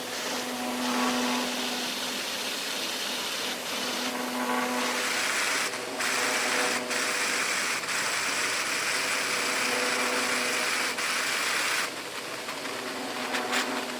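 Textile machinery running in a net-making factory: a steady mechanical hum with a dense hiss over it, broken by a few brief dips.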